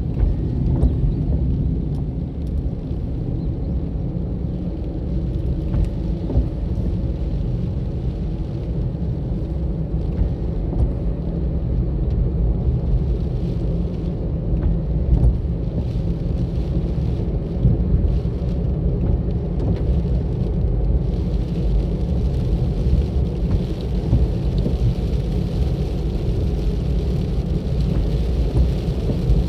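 A car driving along a road: a steady low rumble of engine and tyres. A brighter hiss joins about two-thirds of the way through.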